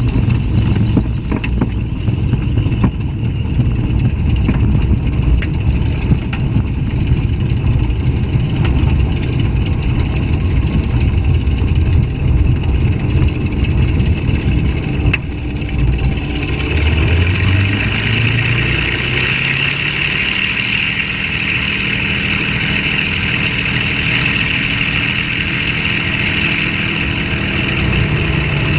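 Packard-Merlin V-1650-7 V-12 engine of a P-51D Mustang running steadily under power, heard from inside the cockpit. About halfway through, the engine note rises and a higher whine comes in.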